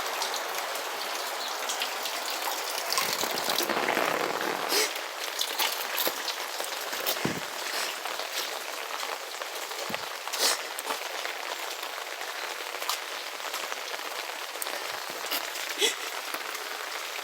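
Rain falling steadily, a continuous hiss with scattered sharper drops and taps, swelling briefly a few seconds in.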